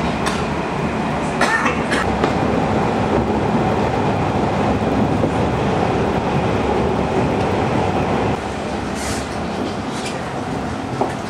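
Aizu Railway AT-351 railcar running along the line, a steady rumble of wheels and engine with a few short knocks. It eases slightly about eight seconds in.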